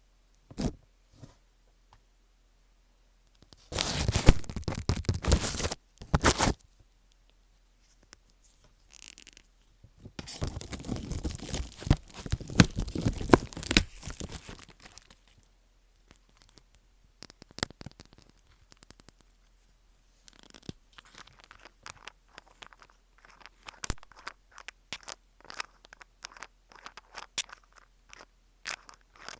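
Close-miked ASMR trigger sounds. About four seconds in comes a loud burst of scratchy rustling lasting about two seconds. A denser crackling stretch follows from about ten seconds in for some four seconds, then scattered soft clicks and taps.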